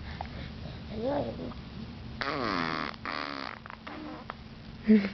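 A baby making a short coo about a second in, then a longer, louder buzzy rasping noise like blowing a raspberry, with more short vocal sounds near the end.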